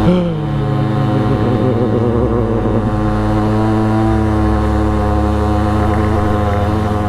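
Motorcycle engine running under way, its revs dropping during the first second and then holding a steady note.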